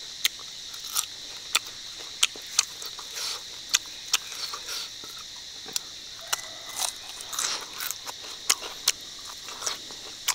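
Close-up crunching and chewing of crispy cooked crickets in the mouth: sharp, irregular crunches, one or two a second, with soft chewing between.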